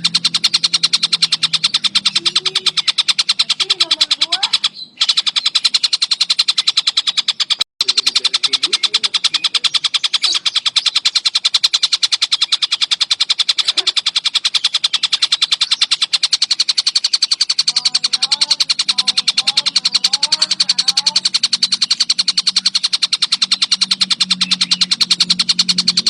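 Collared kingfisher (tengkek buto) calling in a long, very fast, tightly packed run of sharp repeated high notes. The run breaks off briefly twice, about five and about eight seconds in.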